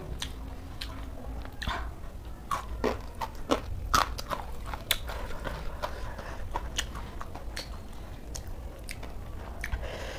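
Close-up chewing of crunchy raw shredded cabbage salad: a run of irregular crunches and mouth clicks.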